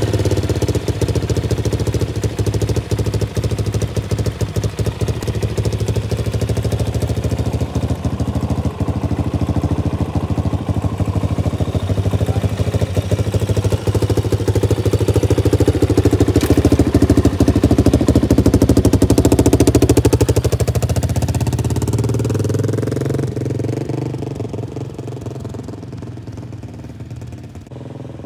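Yamaha XT350's single-cylinder four-stroke engine running at idle, growing gradually louder. About twenty seconds in it revs up as the bike pulls away, and its sound fades as it rides off.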